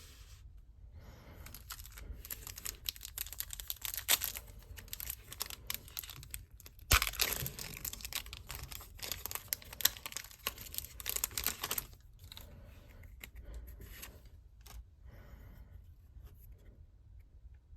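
Plastic and foil packaging of a Pokémon Celebrations product being torn open and crinkled by hand. The crackling is heaviest for several seconds in the middle, then settles to lighter rustling near the end.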